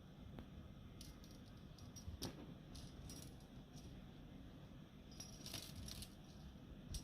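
A Bengal cat purring in a faint, steady low rumble. Light rattling clicks come and go over it several times.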